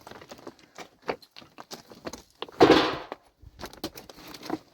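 Scattered light knocks and clatter of stones being handled, with one louder rattling crash of about half a second a little past halfway.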